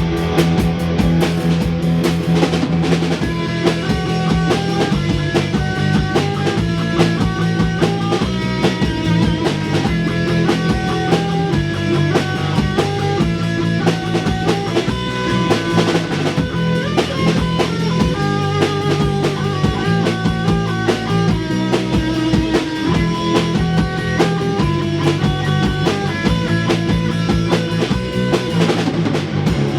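A rock band playing an instrumental fusion number live: drum kit, bass and guitar, with a lead melody line of distinct notes coming in about three seconds in.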